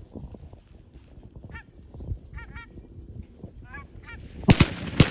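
Geese honking several times, short calls, followed near the end by two loud shotgun shots about half a second apart.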